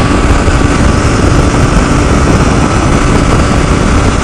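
Motorcycle riding at speed heard through a helmet-mounted intercom microphone: steady loud wind rush over the helmet with the engine running evenly underneath.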